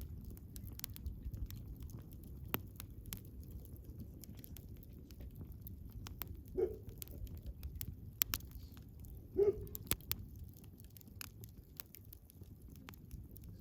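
Wood campfire burning: a low steady rush under many sharp crackles and pops. Two brief squeaks come about halfway through and again a few seconds later.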